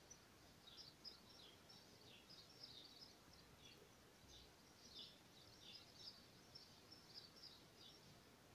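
Near silence with faint chirping of small birds, many short chirps that fall in pitch, coming irregularly.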